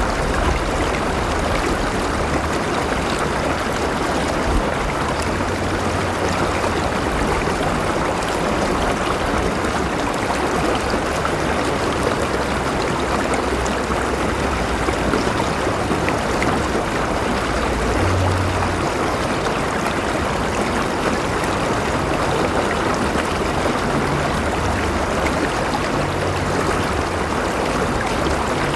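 River water flowing steadily over rocks, an even rushing and burbling with a low rumble beneath.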